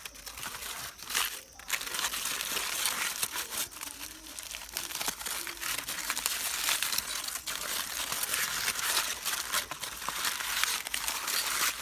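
Aluminium foil crinkling and rustling continuously as a foil-wrapped sweet potato is handled, a dense run of small crackles.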